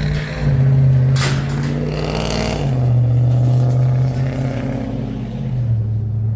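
A steady low motor or engine hum whose pitch drops in steps three times, with a brief metallic clatter about a second in.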